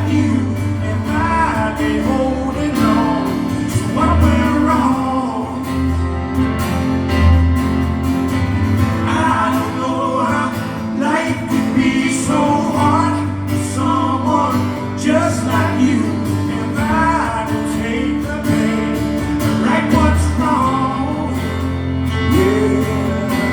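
Live acoustic performance: a voice singing over acoustic guitar, with steady sustained low notes underneath.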